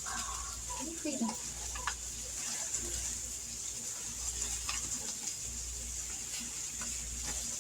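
Flour-coated chicken thighs sizzling in hot oil in a skillet as they par-fry, a steady hiss with scattered crackles and pops.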